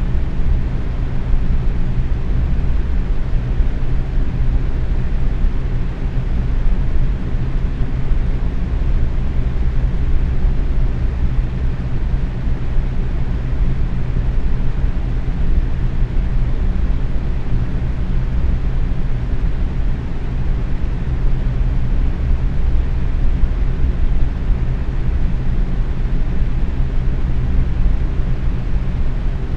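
Box fan running steadily on medium speed: an even, low-pitched whoosh of moving air with a faint steady hum under it.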